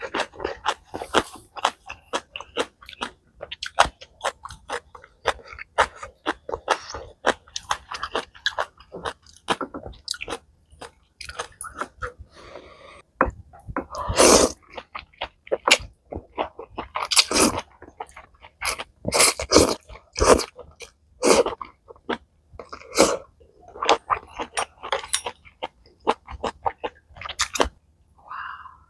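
A person eating malatang close to the microphone: steady chewing with many quick wet clicks and crunches, broken by several louder, longer bursts in the second half.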